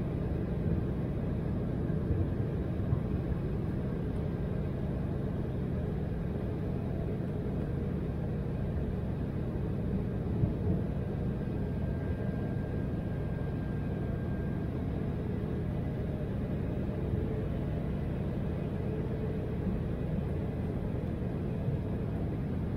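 Steady low rumble of an Embraer 175's twin GE CF34-8E turbofans and the airflow, heard inside the cabin during the climb after takeoff.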